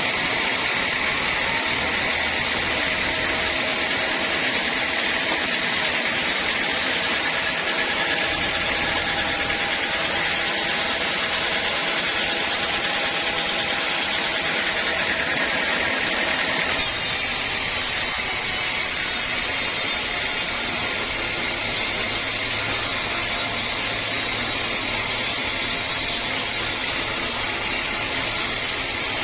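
Sawmill saw running steadily, a continuous mechanical whine and rush with no pauses; its sound shifts abruptly about two-thirds of the way through.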